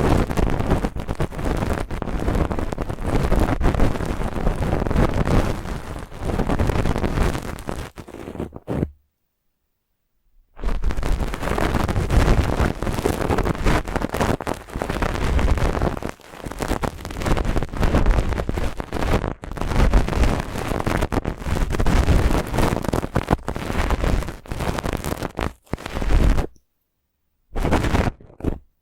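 Brushing ASMR: a brush scratching and rubbing close to the microphone in dense, crackly strokes. It stops dead for about a second and a half about nine seconds in, and again for about a second near the end.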